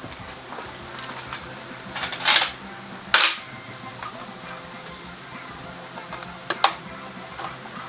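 A few sharp metallic clinks and clatters of tools and parts being handled during scooter tyre work. The loudest is about three seconds in, with others about two and a half and six and a half seconds in, over a low steady hum.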